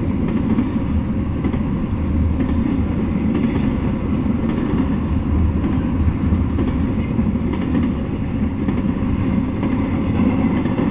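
Double-stack container freight train passing on well cars: a steady, even rumble of the cars' wheels on the rails.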